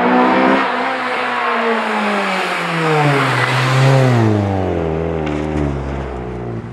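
2010 Honda Civic Si sedan's four-cylinder engine through an aftermarket header and 3-inch exhaust, its exhaust note falling steadily in pitch as the revs come down, then settling at a low steady drone near the end.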